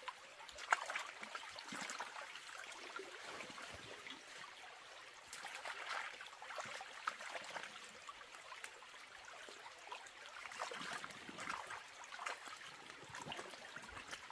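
Water trickling and splashing unevenly, with many small drips and splashes and one sharp click under a second in.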